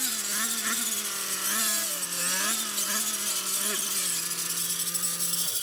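Small two-stroke engine of a gas brush cutter (weed eater) running at speed while cutting brush, its pitch rising and falling with the load. About four seconds in it drops to a lower, steadier note, then stops just before the end.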